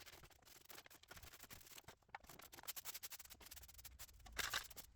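Faint scratchy rustling and clicks of broken plastic debris being cleaned up, with a louder scrape about four and a half seconds in.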